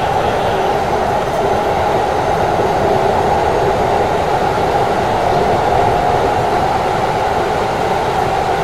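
Keikyu electric commuter train running at speed, heard from inside the front cab: steady running noise of wheels on rail and the moving car.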